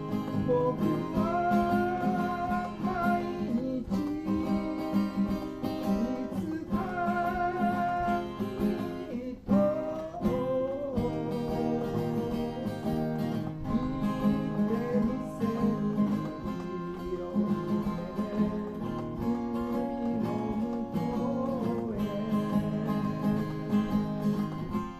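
Acoustic guitar strummed in a steady rhythm, with a held melody line over it, playing a 1970s Japanese folk song. The music briefly drops out about nine and a half seconds in.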